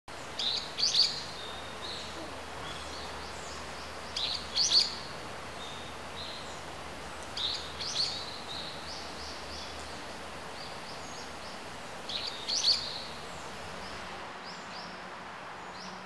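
A songbird calling in four short bursts of sharp, high notes, about one burst every four seconds, over a steady hiss of forest ambience.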